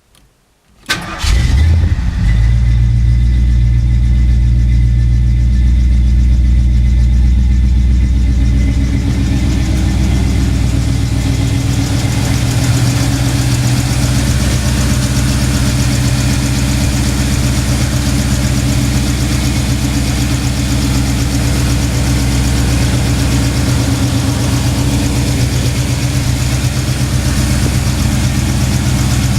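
1978 Ford Ranchero GT's 351M V8 engine starting about a second in and then idling steadily. About nine seconds in the deep low rumble eases off and it idles on evenly.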